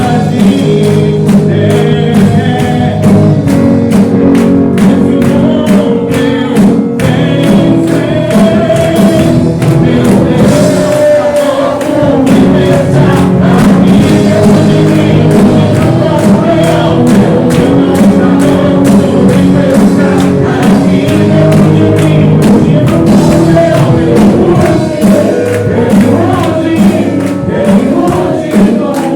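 Live church worship music: a band with singing voices and tambourine playing a slow, solemn praise song.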